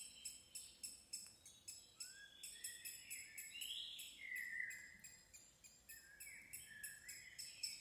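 Faint wild birdsong: several short whistled phrases sliding up and down in pitch, over a rapid high ticking.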